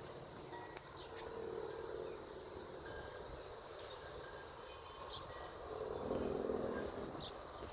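Outdoor ambience: a steady high insect drone with a few faint, short chirps, and a low hum that swells about six seconds in.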